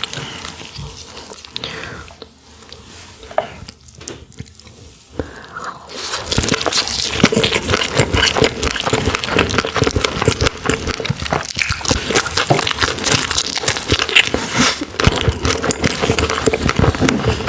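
Close-miked chewing of roe-filled sandfish: a few soft mouth clicks, then from about six seconds in a loud, dense crackling crunch as the roe is bitten and chewed.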